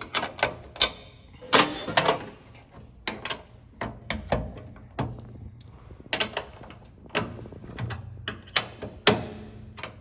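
Irregular clicks and knocks of hand work on a tailgate latch mechanism as the latch is held in its moved position and tied in place.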